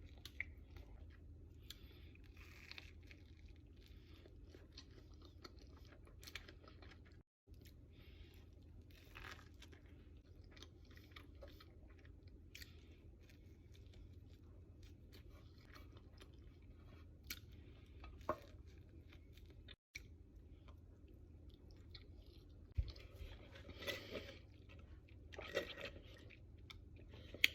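Close-miked chewing of sandwiches: soft crunching, wet mouth clicks and smacking, faint over a low steady hum, with two brief dropouts where the audio cuts out.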